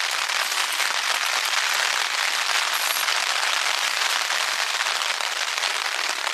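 Rain falling steadily on a Hilleberg Akto tent's fabric, heard from inside: a dense, even hiss of countless drops striking the nylon.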